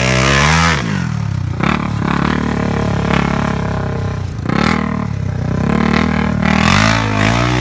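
ATV engine running under riding load, its pitch rising and falling with the throttle: it eases off just under a second in, runs lower for a few seconds, then revs up again near the end.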